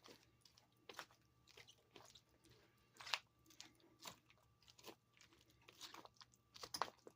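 Spoon stirring a chunky chicken salad with mayonnaise in a bowl: faint, irregular crunchy clicks and squelches about once or twice a second.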